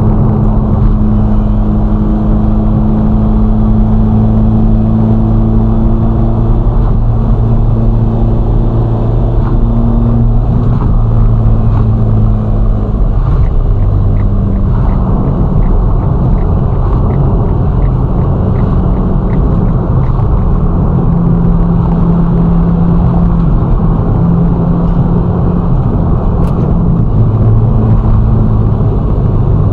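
Ferrari Roma's twin-turbo V8 cruising under steady load with road noise. Its note steps down in pitch about halfway through and shifts again later. A light regular ticking, about two a second, runs for several seconds in the middle.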